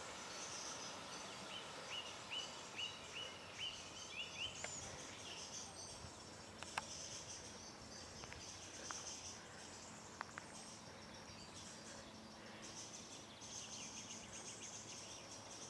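Faint woodland ambience with birdsong: a bird repeats about eight short rising chirps in quick succession in the first few seconds. Under it runs a steady soft hiss, and a few faint clicks come later.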